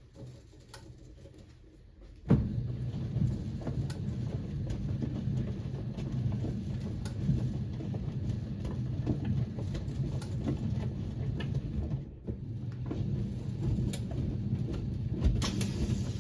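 1978 Siemens WA4600 washing machine in its wash cycle with a load of jeans. After a quiet pause, the drum starts turning suddenly about two seconds in, with a low rumble and scattered clicks. It stops briefly near the end, then turns again.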